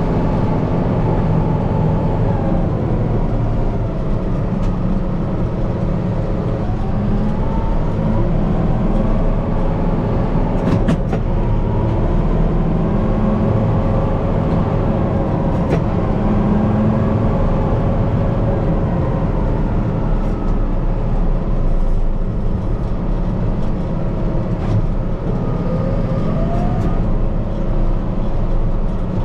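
Kubota M5-091 tractor's diesel engine running steadily, heard from inside the cab, its pitch rising and falling as engine speed changes. A few sharp clicks or knocks come through near the middle.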